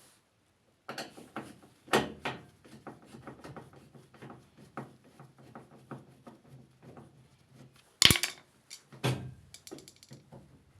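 Irregular clicks, knocks and clatter of parts and tools being handled, with louder knocks about two seconds in and again near the end.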